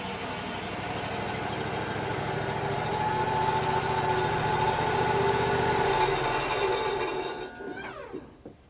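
Bandsaw sawmill running steadily, then spinning down with a falling pitch and stopping near the end as the mill is powered down after a cut.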